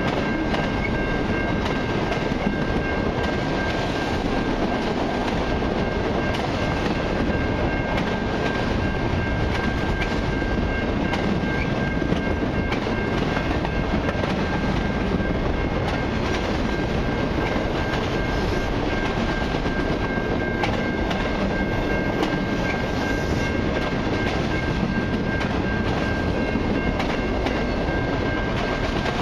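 Autorack cars of a long freight train rolling by: a steady rumble and clatter of steel wheels on rail, with occasional clicks and a steady high-pitched tone running over it.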